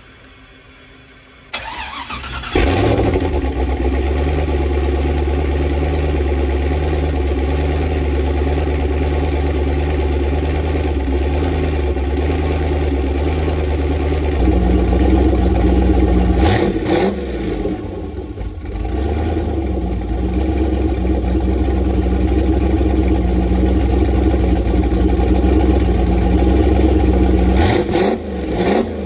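Turbocharged LS V8 in a Fox-body Mustang cranking for about a second, catching and settling into a loud, steady idle. It gets a quick rev about halfway through and again near the end.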